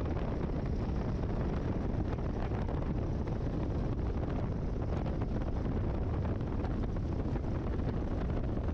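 Great Lakes open-cockpit biplane's engine running steadily at low power while the plane rolls out on a grass strip after landing, with wind buffeting the microphone.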